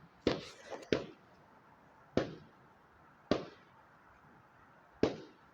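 Fireworks going off: five sharp bangs about one to one and a half seconds apart, each with a short fading tail.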